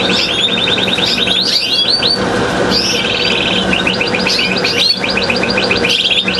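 Canaries singing: fast trills and rolls of rapidly repeated notes, one run after another and sometimes overlapping, over a steady low hum.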